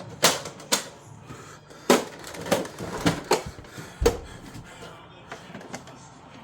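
Plastic parts of a Hoover upright vacuum being handled and fitted together: a run of sharp clicks and knocks, one with a heavier thump about four seconds in, then a few fainter ticks.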